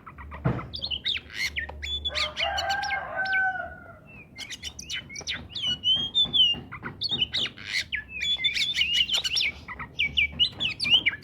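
Oriental magpie-robin (kacer) singing vigorously: a fast run of varied whistles, sweeps and sharp chattering notes, with a lower drawn-out call about two seconds in.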